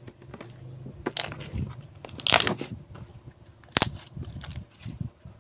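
Homemade glue slime being mixed and kneaded by hand, giving irregular squelches and crackling pops, loudest a little past two seconds in, with a sharp pop near four seconds.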